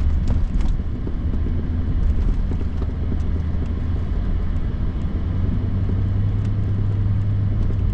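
Steady low rumble of engine and tyres heard inside the cab of a Toyota Tundra pickup driving on a snowy road. The hum steps slightly higher about halfway through.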